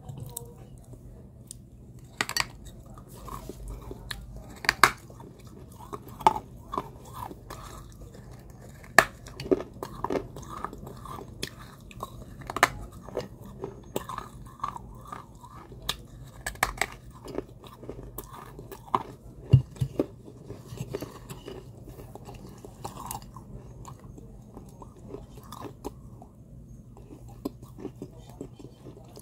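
Close-up crunching and chewing of pieces of a fired terracotta clay pot, with sharp crunches at irregular intervals. The bites thin out briefly near the end.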